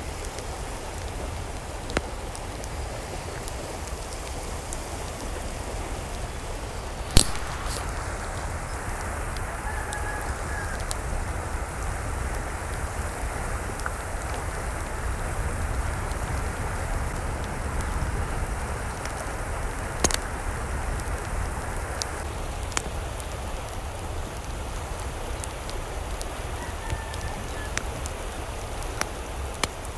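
Steady rain, with a few sharp drip-like clicks, the loudest about seven seconds in. Two faint short calls, likely fowl, about ten seconds in and again near the end.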